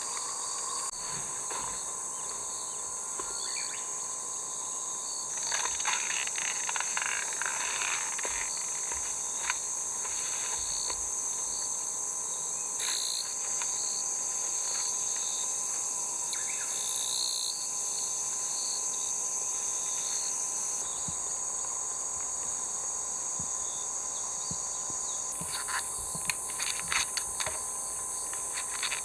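Steady high-pitched chorus of summer insects buzzing and shrilling, with a few short rustles and clicks, clustered about six seconds in and again near the end.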